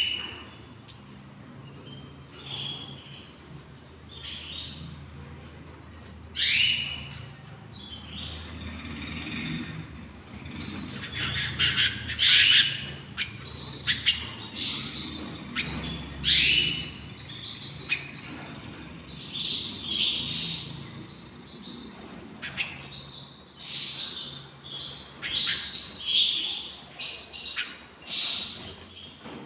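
Canaries chirping and calling. The calls are short, upward-sweeping chirps that come irregularly throughout, with a dense flurry of calls around the middle.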